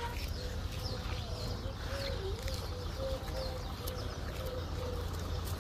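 Birds calling, with a wavering dove-like cooing and faint chirps, over a steady low rumble.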